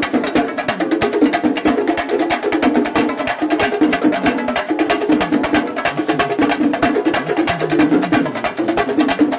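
Kerala temple-festival melam: a percussion ensemble of drums and cymbals playing rapid, unbroken strokes, with a melody line of held, stepping notes in a middle register over it.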